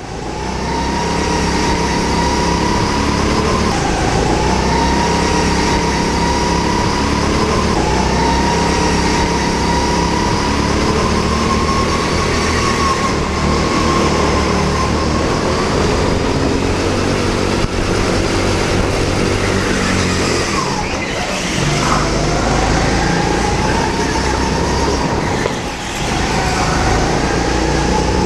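Rental go-kart engine running hard through a lap. Its whine climbs on each straight and drops back for the corners, with one deeper dip and pick-up about three-quarters of the way through.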